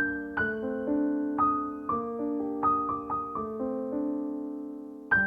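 Slow, soft solo piano music: single notes and chords struck and left to ring out and fade. The phrase dies away toward the end before a new chord is struck.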